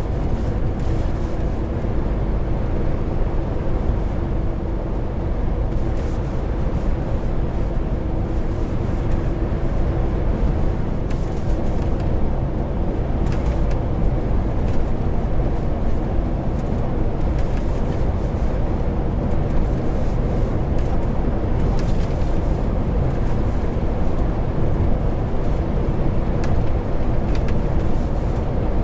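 Heavy truck driving along at a steady pace: a continuous low engine and road rumble with a faint steady hum, and light scattered ticks and rattles.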